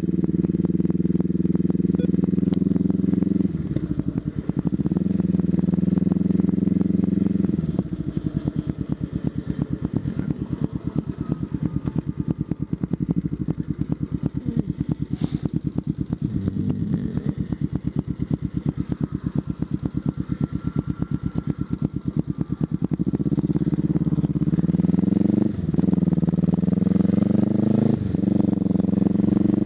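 Motorcycle engine running at cruising speed, then dropping in pitch twice as it slows. It settles into an even, pulsing idle for about fifteen seconds, then accelerates with rising pitch, shifting up twice near the end.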